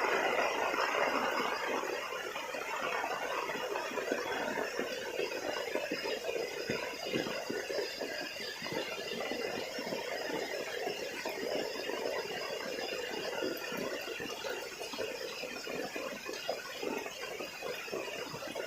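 Heavy rain falling steadily, a dense patter of drops, a little louder in the first second or two.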